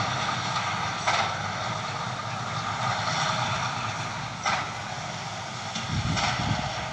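John Deere tractor and straw baler running in the field, a steady engine and machinery drone, with two brief clicks, one about a second in and one past four seconds.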